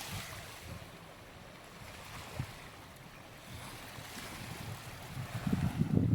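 Small waves washing onto a sandy beach, with wind buffeting the microphone in low gusts that grow louder near the end.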